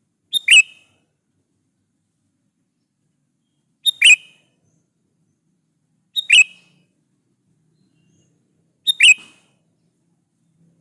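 Sooty-headed bulbul (kutilang) calling: four short calls, about three seconds apart. Each call is a quick high note followed at once by a louder note that drops in pitch.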